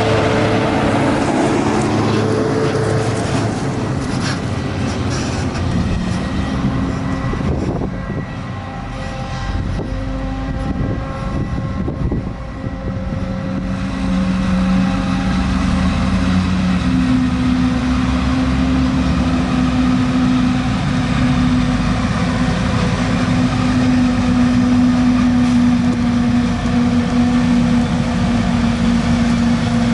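Heavy diesel farm machinery, a forage harvester and tractor, running while chopping maize: a steady mechanical drone with several engine tones. It eases off for a few seconds near the middle, then grows louder again with deeper engine tones.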